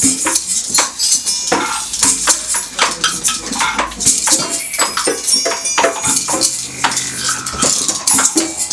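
Percussion ensemble playing a busy rhythm of sharp, closely spaced strikes, with clattering and shaker-like sounds mixed in.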